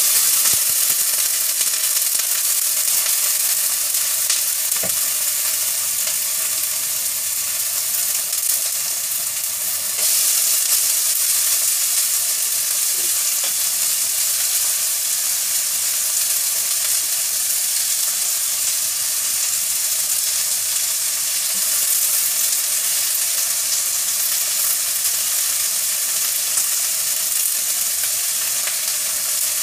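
Food frying in a pan with a steady sizzle, a little louder from about ten seconds in.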